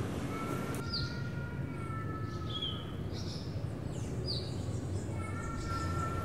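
Birds chirping: a handful of short, high, downward chirps spread a second or so apart, over a steady low background hum. A faint held tone comes in early on and again near the end.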